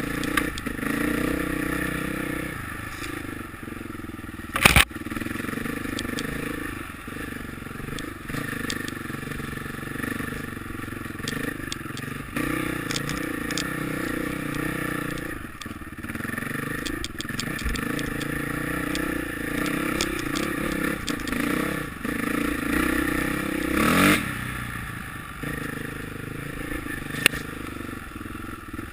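Motocross motorcycle engines running and revving, the pitch rising and falling throughout. A brief loud bang comes about five seconds in, and a short loud swell near 24 seconds.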